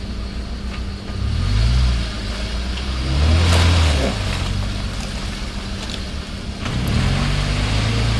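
Off-road 4x4's engine revving hard in three surges, pitch climbing each time, as it works through deep mud. There is a brief hiss near the middle.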